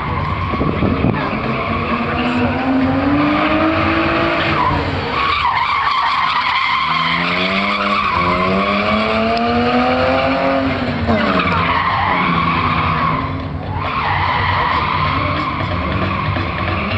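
Drift car engine revving up and down repeatedly, its pitch rising and falling several times, over continuous tyre screech as the car slides through drifts.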